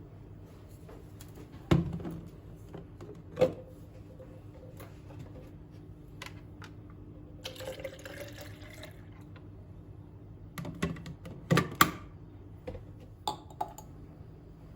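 Household handling sounds: a few sharp knocks and clinks of objects being set down, and about eight seconds in a brief pour of liquid into a vessel, rising in pitch as it fills, over a steady low hum.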